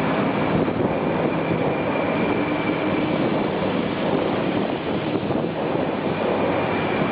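200 series Shinkansen train moving slowly alongside the platform: a steady running and equipment noise with a faint high whine held throughout.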